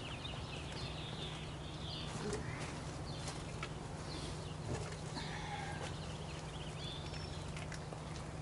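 Birds chirping in repeated short phrases over a steady low hum, with a few light clicks.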